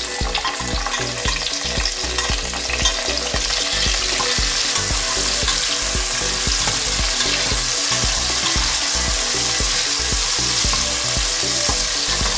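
Whole chillies, shallots, garlic and other spice-paste ingredients sizzling as they hit hot oil rendered from chicken skin in a metal pot and are stirred with a metal spoon. Scrapes and clinks of the spoon in the first few seconds, then a steady sizzle.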